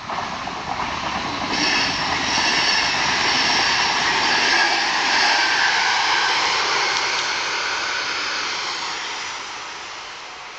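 NSB regional train passing close by at speed: a loud rush of wheels on rail that comes up suddenly, holds for several seconds, then fades away as the train clears the crossing.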